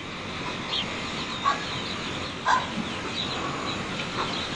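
Outdoor field ambience: a steady hiss with a few short, scattered bird calls, the loudest about a second and a half and two and a half seconds in.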